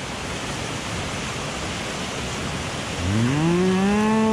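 Steady rush of a mountain stream, then about three seconds in a man's long, rising 'mmm' hum of delight on tasting food.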